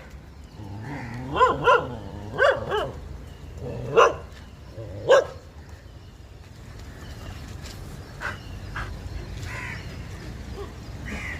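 A dog barking: about six short barks in quick pairs over the first five seconds or so, then quieter background noise with only faint sounds.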